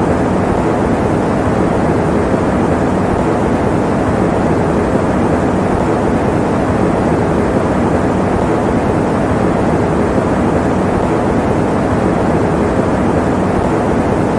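Electric fan running steadily: a constant, even rush of air noise, strongest in the low and middle range with little hiss at the top.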